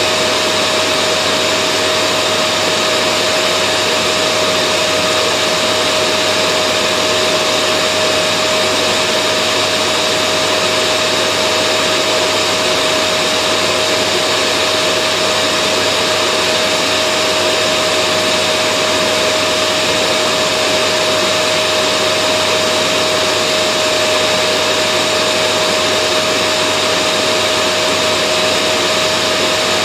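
Vacuum cleaner running continuously at a constant level: an even rushing noise with a steady motor whine on top that never changes.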